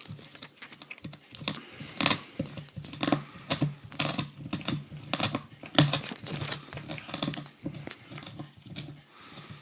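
Dog gnawing an ox bone: irregular cracking and scraping of teeth on bone, several clicks a second, a few sharper cracks among them.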